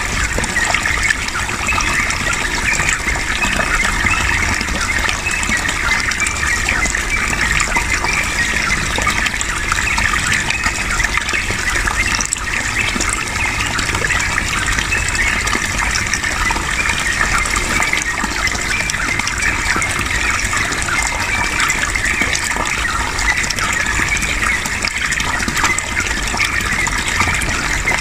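Running water flowing steadily, an unbroken rushing stream sound.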